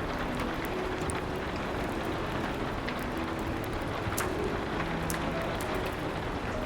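Steady rain hiss with scattered sharp crackles of a wood fire, and a few soft, held piano notes faintly underneath.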